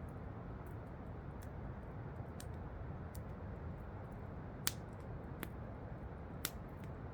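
Campfire crackling: sharp wood pops about once a second, two of them louder, one a little past halfway and one near the end, over the steady rush of waterfalls.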